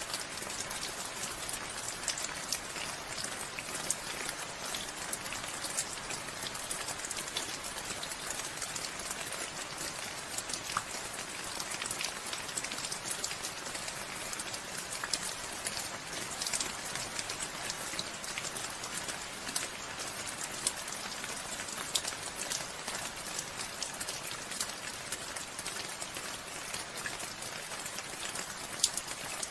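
Steady rain falling, an even hiss with many small, sharp drop ticks on surfaces throughout.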